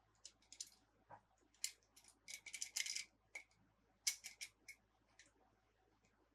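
Irregular small sharp clicks and crinkles of plastic toy packaging and toy parts being handled during an unboxing, with a dense flurry a little after two seconds in and another short cluster about four seconds in.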